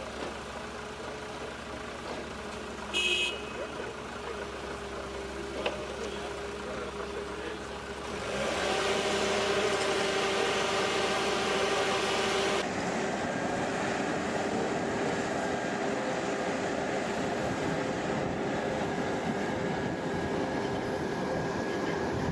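Vehicle or heavy-machine engines running steadily, with a short high tone about three seconds in and a louder, noisier stretch in the middle that stops abruptly.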